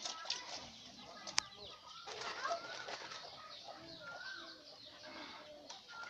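Birds chirping in many short calls that slide up and down in pitch, with light clatter between them and one sharp click about a second and a half in.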